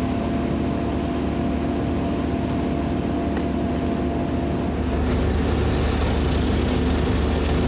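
Heavy engine running steadily with a low drone that grows louder about five seconds in.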